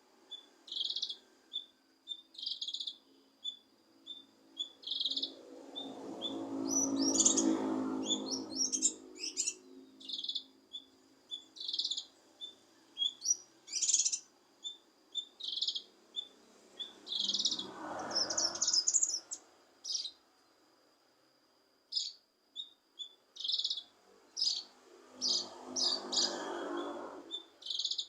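Cucak kinoi songbird singing: a string of short, high chirps, several to a second in places, broken three times by longer, lower and noisier phrases, the first of them the loudest.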